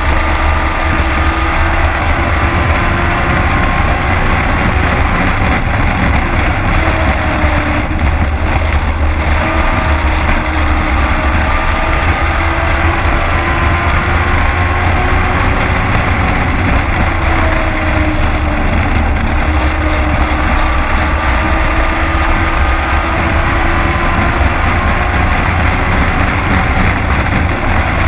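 Race truck engine heard from inside the cab at racing speed, a loud, steady rumble whose pitch repeatedly rises and falls as the driver accelerates and lifts around the track.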